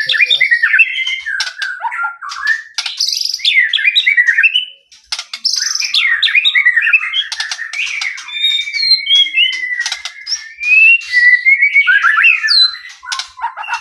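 White-rumped shama (murai batu) singing loudly: a varied song of quick whistles and rapid chattering phrases, with a short break about five seconds in and a long warbling phrase held near one pitch in the middle.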